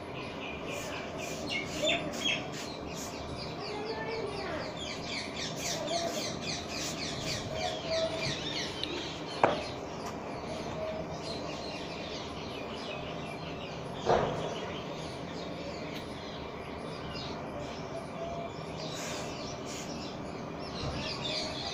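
Small birds chirping busily, with rapid high twittering throughout and a few lower whistled notes, and two sharp knocks about nine and fourteen seconds in.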